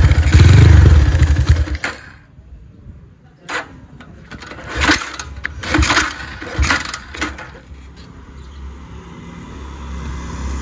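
Single-cylinder engine of a Honda GL100-styled motorcycle, just kick-started. It revs hard and loud for about two seconds, drops back, then gives several short, sharp revs before settling into a steady idle near the end.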